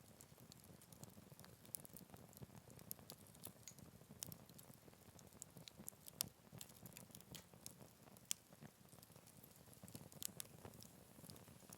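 Faint crackling of a wood fire in a Picogrill 398 folding fire pit: irregular small pops and ticks, a few sharper ones, over a low steady rumble of flame.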